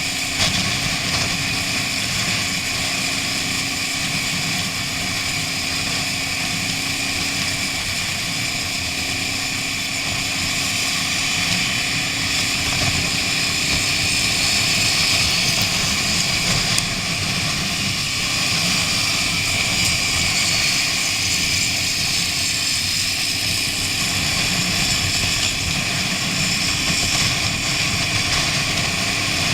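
Motorcycle running steadily at road speed, its engine hum under a constant rush of wind noise.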